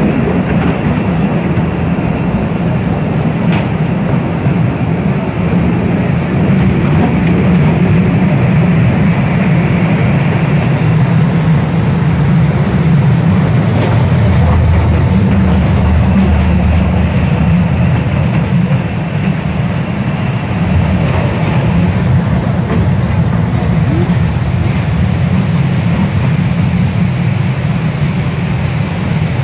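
Postojna Cave tourist train running along its track, heard from inside one of its open cars: a loud, steady rumble and rattle of the cars on the rails. The low rumble grows heavier for a few seconds around the middle.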